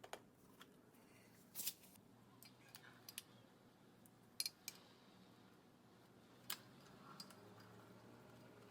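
Near silence broken by a handful of short, sharp clicks and light taps spaced irregularly over several seconds, over a faint low hum.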